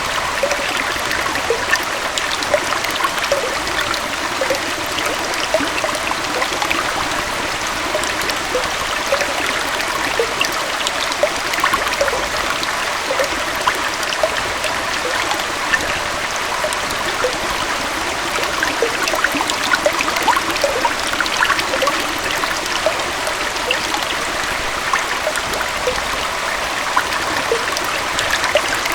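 Gentle waterfall on a stream flowing steadily: a continuous rush of water dotted with many small bubbling, trickling plinks.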